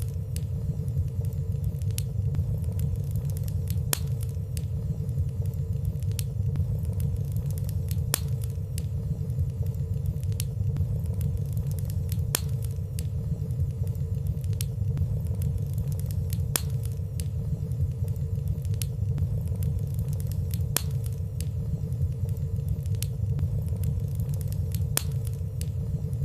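Wood fire burning in a fireplace: a steady low rumble of flames with light, scattered crackles every second or so.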